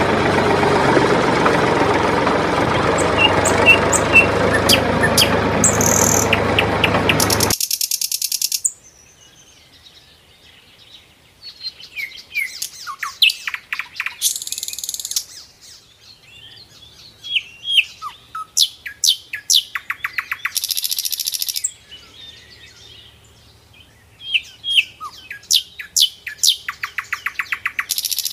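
A loud, steady motor noise cuts off abruptly after about seven seconds. Small birds then chirp and twitter on and off, with several bursts of fast, rattling trills over quiet.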